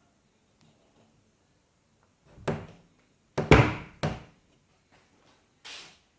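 Four knocks and thumps a second or so apart, the loudest about halfway through, with a short ring after each.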